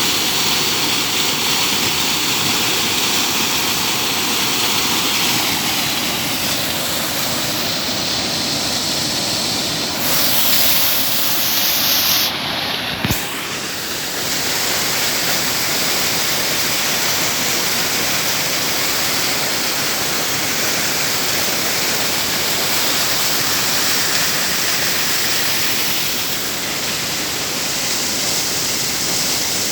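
Waterfall rushing in a loud, steady roar of falling water, with a single knock about thirteen seconds in.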